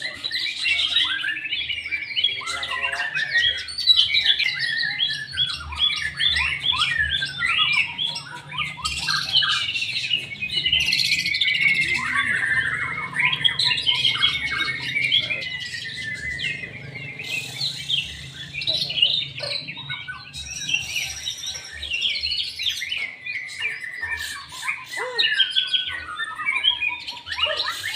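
White-rumped shama (murai batu) singing continuously: a fast, varied stream of whistles, sliding notes, trills and harsh chattering phrases with hardly a break.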